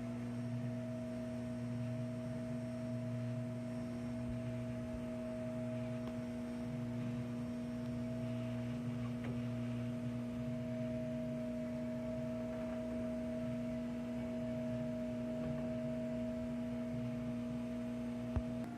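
Teka MWL 32 BIS built-in microwave oven running with a steady hum of a few fixed tones, with a single sharp click near the end.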